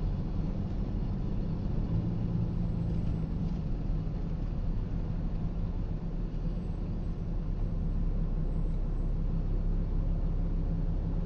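Steady road and engine noise heard inside a moving car's cabin: a low, even rumble with no sudden sounds.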